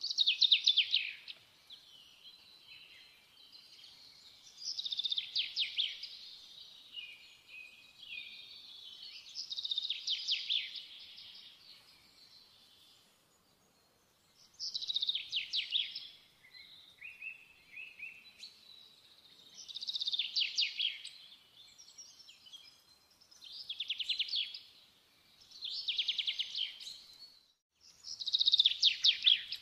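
A songbird singing short, fast trilled phrases, one every few seconds.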